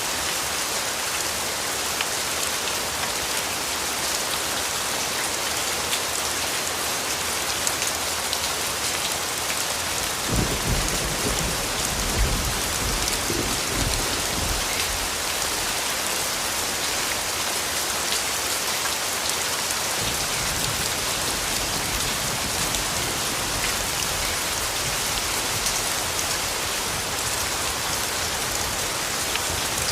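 Steady rain pattering on leaves and ground. About ten seconds in, a low roll of distant thunder rises, is strongest for a few seconds, then dies away.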